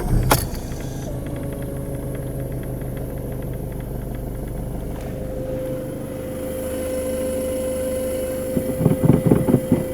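VW Golf 7's 1.6 TDI four-cylinder diesel idling steadily, running again after its fuel pump control module was replaced. A steady whine joins about a second in, and a few knocks come near the end.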